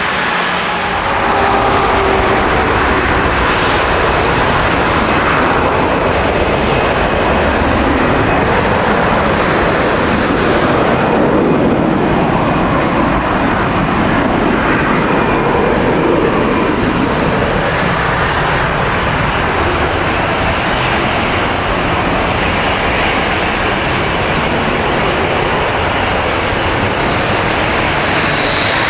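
Jet airliner engines, a loud steady rush with a faint whine, swelling in the middle and easing off towards the end.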